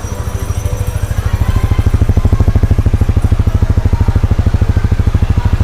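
Honda Supra GTR 150's single-cylinder four-stroke engine running through its stock exhaust, with a rapid, even exhaust pulse. It grows louder over the first two seconds, then holds steady.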